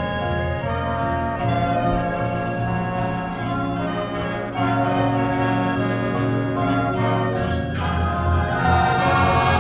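Marching band playing: brass holding full chords over a heavy low bass line, with a few sharp percussion strikes, swelling louder near the end.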